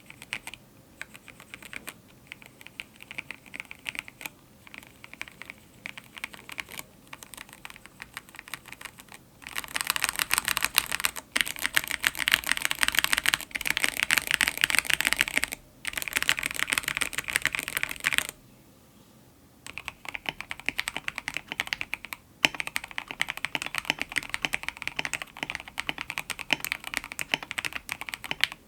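Typing on a mechanical keyboard (KBD67 Lite) fitted with Gateron X linear switches: a rapid run of key clicks, denser and louder in the middle. After a short pause, typing resumes on the same switches, now lubed and filmed.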